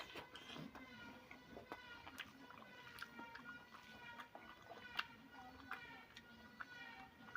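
Quiet eating sounds: soft chewing with scattered wet mouth clicks and smacks.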